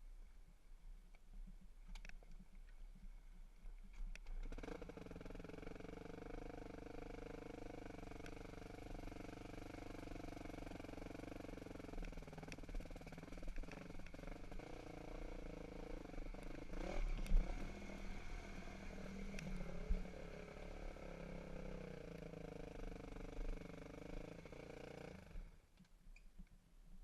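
Dirt bike engine running steadily at a near-constant speed, as at idle. It comes in about four seconds in and cuts off a second or two before the end.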